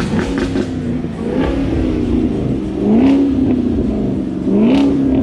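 Car engine revving through a loud exhaust, its pitch climbing in short rev blips about three times.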